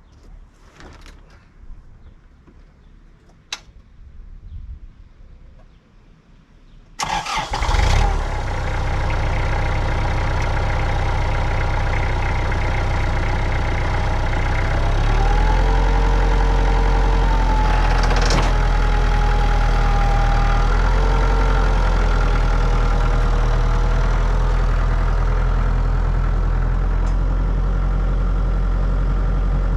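A few faint knocks, then an engine starts about seven seconds in and runs steadily; about halfway its pitch shifts slightly and a whine rises and falls before settling.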